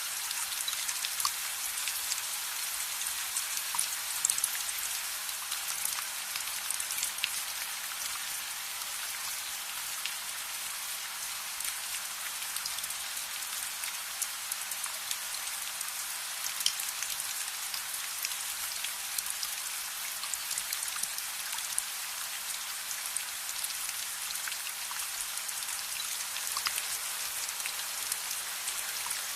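Steady rain, a dense even hiss with scattered sharp ticks and pops of drops.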